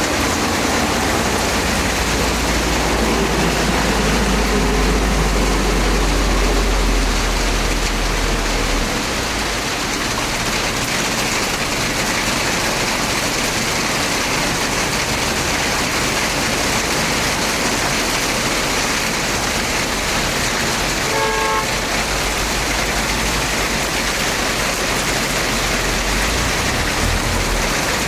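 Heavy rain pouring steadily, with a low rumble through the first several seconds. A short car horn toot sounds about 21 seconds in.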